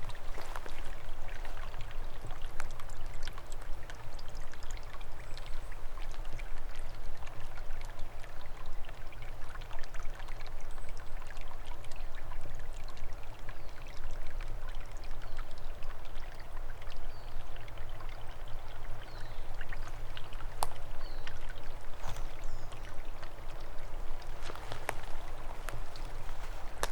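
Small forest stream running and trickling steadily, with many small splashes and drips through it.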